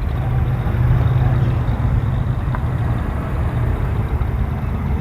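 A car engine running steadily at low revs, a continuous low engine sound.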